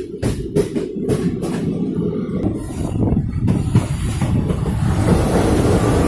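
Train running along the track: a steady low rumble with a few sharp clicks early on. From about halfway through, a hiss spreads over it and the sound grows steadily louder.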